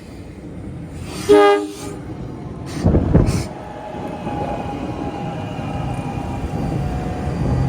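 NJ Transit Arrow III electric train approaching the station: a short horn blast about a second in, a brief burst of loud clatter a second and a half later, then the steady rumble of the train, growing louder as it draws near.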